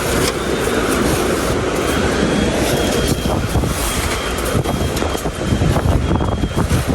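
Strong blizzard wind blowing steadily, with wind buffeting the microphone.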